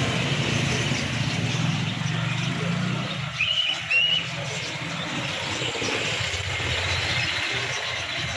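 Steady busy background noise with a low hum through the first half, and two short high chirps a little after three and a half seconds in.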